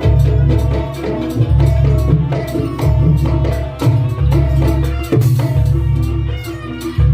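Loud live Javanese jaranan dance music: drumming and rapid repeated pitched percussion notes over heavy low bass pulses about every second and a half.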